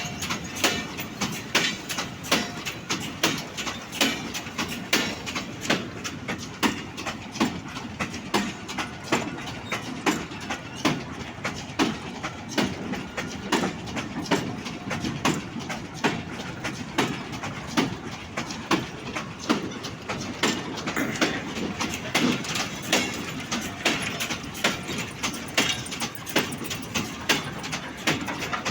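Empty goods wagons rolling past, their wheels clicking over the rail joints in a steady clickety-clack over continuous rumble and rattle.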